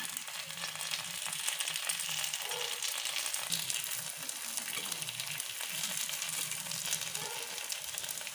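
Kuzhi paniyaram batter balls frying in oil in the wells of a paniyaram pan, a steady sizzle.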